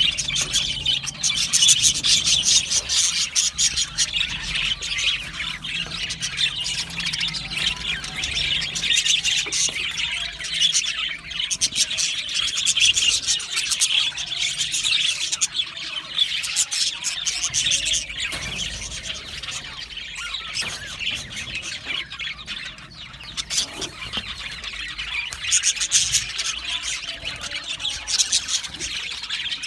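Budgerigars chirping and warbling in a continuous, dense stream of quick high chirps, with occasional harsher squawks.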